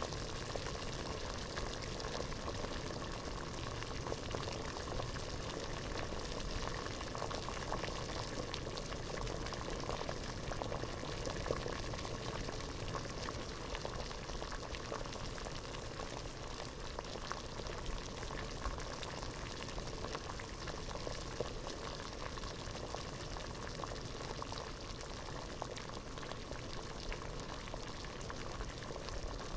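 Water boiling hard in a pot: a steady bubbling hiss with a thick crackle of small bubbles bursting.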